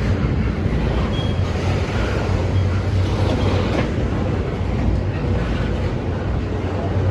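Norfolk Southern intermodal freight train rolling past: a steady, loud rumble of the cars and wheels on the rails.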